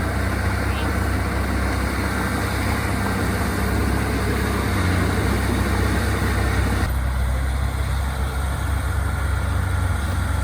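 Heavy diesel earthmoving machinery running steadily with a deep engine drone. About seven seconds in the higher-pitched mechanical noise drops away abruptly, while the low drone carries on.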